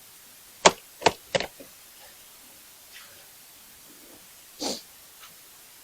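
Three sharp knocks or clicks in quick succession, then a softer scuffing sound about four and a half seconds in, from handling during work on the truck.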